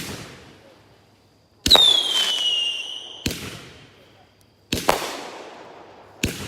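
A 500-gram consumer fireworks cake firing shot after shot, a sharp bang about every second and a half, each trailing off in a crackle. One shot, about a second and a half in, carries a loud falling whistle.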